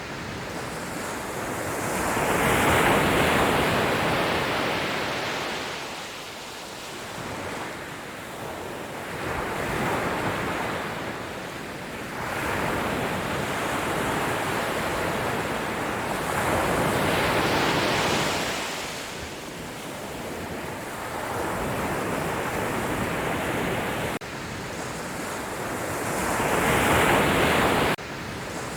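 Sea waves breaking on the shore, a rushing roar that swells and falls back four times, about every seven to eight seconds.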